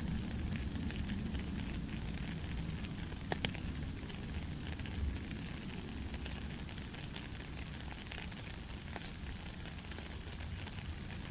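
Steady white noise: an even hiss over a low rumble, with faint crackling and one sharper click about three seconds in.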